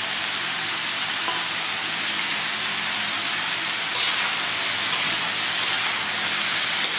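Pork ribs with lemongrass and chilies sizzling steadily in a wok. About four seconds in, a metal spatula starts stirring and tossing them, and the sizzle gets a little louder.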